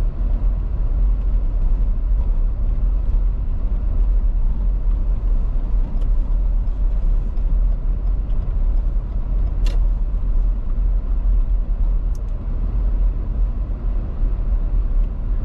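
A car driving on an icy winter road: a steady low rumble of tyre and engine noise, with a few brief sharp ticks, the clearest about ten seconds in.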